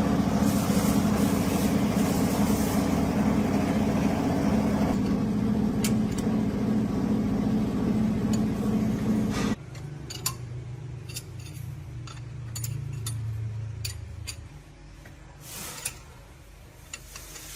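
A machine runs loudly and steadily, then cuts off suddenly about ten seconds in. After that a quieter low hum carries on, with a series of light metallic clinks.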